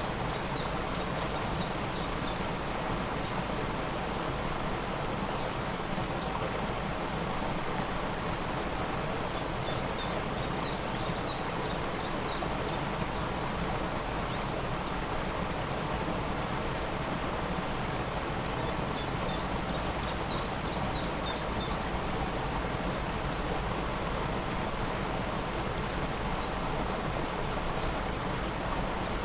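Steady rush of a waterfall, with a small bird singing three short phrases of rapid, high repeated notes: one at the start, one about ten seconds in, and one about twenty seconds in.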